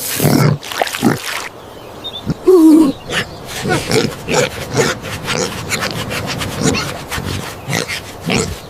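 Cartoon pig grunting and squealing once with a wavering pitch about two and a half seconds in, after scraping noise. A run of short scuffing sounds follows, about two to three a second.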